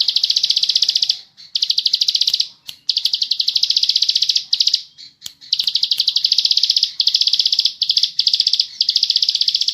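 Plain prinia (ciblek sawah) singing its rapid, buzzing trill ('ngebren'), in bouts of one to two seconds broken by short pauses.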